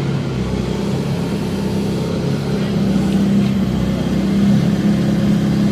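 Diesel engine of a hydraulic excavator running steadily as it works to right an overturned dump truck, its low hum growing a little louder about three seconds in.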